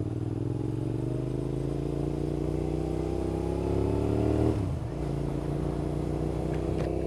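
Suzuki SV650's V-twin engine pulling up through the revs for about four and a half seconds, then dropping sharply as the throttle closes for a gear change, and climbing again. Wind rushes over the microphone, which has no windscreen.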